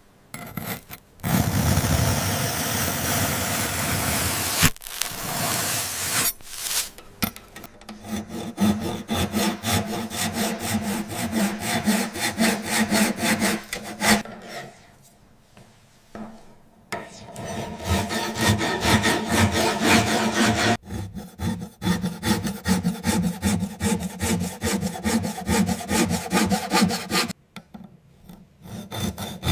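A blade cutting through brittle miniature landmark models with crisp crunching. A few seconds of steady scraping come first, then long runs of quick, rapid crunching strokes broken by two short pauses.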